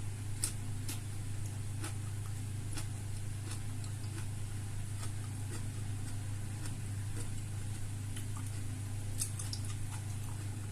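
Close-up mouth sounds of someone eating: scattered small clicks and smacks of chewing at irregular intervals, over a steady low hum.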